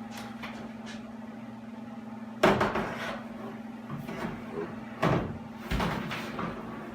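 Several knocks and rustling as a loose truck hood is carried and set down on the cab roof, the loudest knock about two and a half seconds in and two more around five and six seconds, over a steady low hum.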